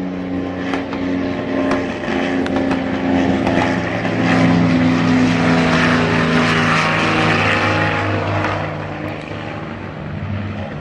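Propeller aircraft engine running with a steady drone, growing louder to a peak about halfway through and then easing off.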